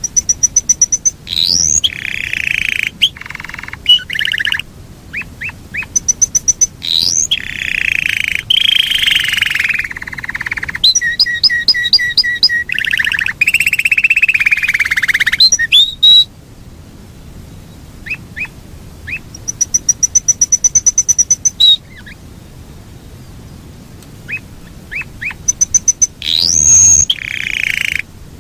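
Yorkshire canary singing in long rolling phrases: fast runs of repeated notes and trills with a few quick rising whistles. The song pauses for a few seconds just past the middle, then starts again.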